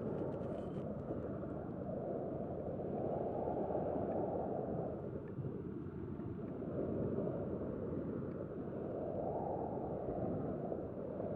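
Sea waves washing in and drawing back, a steady rushing that swells and ebbs every few seconds.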